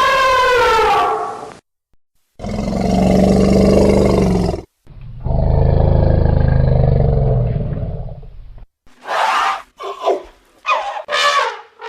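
Elephant calls: a trumpet call bending in pitch at the start, then two long low roars, then a run of short high trumpets and squeals near the end.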